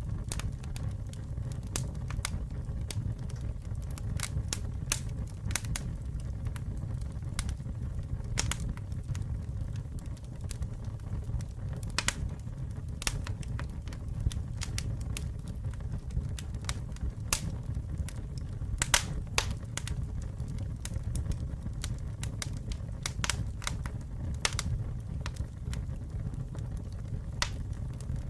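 Wood campfire burning, with a steady low rumble of flame under irregular sharp crackles and pops from the burning wood, a few louder snaps among them.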